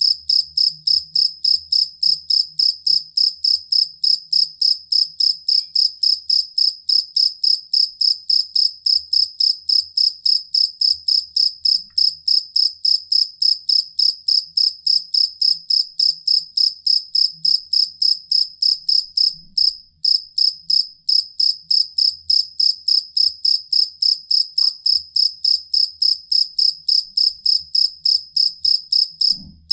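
Field cricket chirping: a steady train of short, high-pitched chirps, about four a second, with a brief break about two-thirds of the way through.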